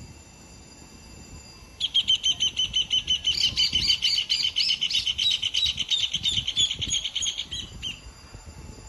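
A bird giving a fast run of repeated high chirps that starts about two seconds in and lasts some six seconds, over a steady high insect trill.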